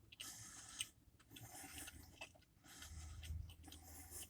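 Faint, irregular sounds of a person chewing a mouthful of sandwich, with a small click a little under a second in.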